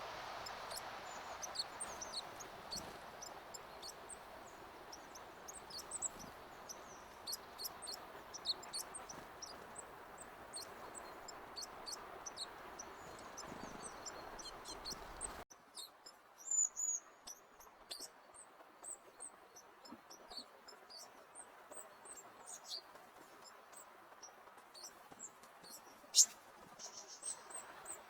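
Small songbirds chirping with many short, high calls, over a steady hiss that drops away suddenly about halfway through. A few louder chirps follow, and there is one sharp, loud sound near the end.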